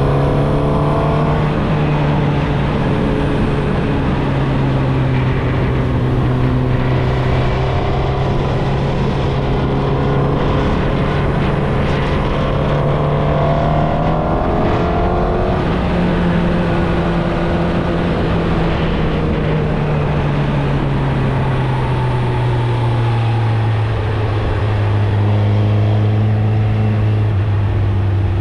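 Suzuki GSX-R1000 inline-four running through its stock exhaust under way, holding a steady note. The pitch rises briefly about halfway through, then falls gradually to a lower, steady note over the second half as the revs come down.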